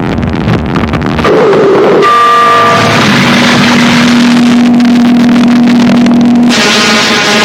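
Harsh noise music: loud, dense distorted noise that shifts abruptly about a second in and again a second later. A held low drone then sounds under the noise for about three and a half seconds, before the texture changes again near the end.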